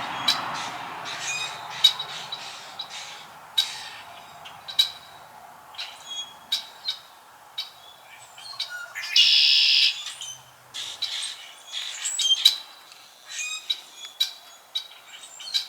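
Birds chirping: short, sharp calls every half second to a second, with one harsher, buzzier call lasting about a second about nine seconds in.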